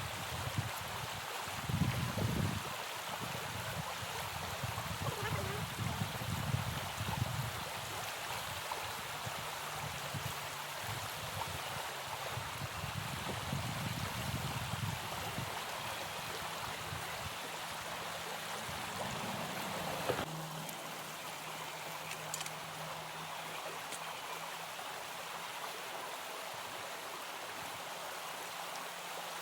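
Steady rush of flowing stream water, with uneven low rumbles during the first two-thirds that stop abruptly about twenty seconds in.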